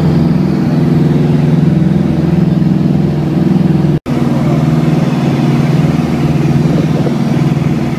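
Twin piston engines of a Piper Seneca running steadily, heard from inside the cabin as a loud, even drone. The sound drops out for an instant about halfway through.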